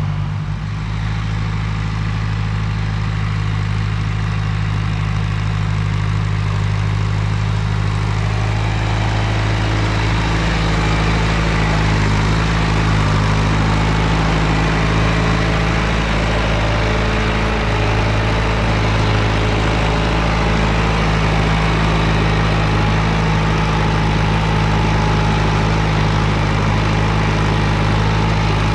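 John Deere 2510 tractor engine running steadily, growing a little louder and fuller about eight to ten seconds in.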